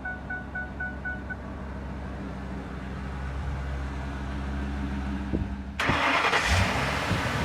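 A dashboard chime beeps about three times a second and stops after about a second. Then, about six seconds in, the Ford 6.8-litre V10 gas engine starts suddenly and its pitch rises as it comes up to a fast idle.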